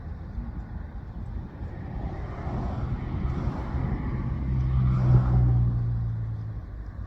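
A motor vehicle passing by: its engine hum grows louder to a peak about five seconds in, then fades away.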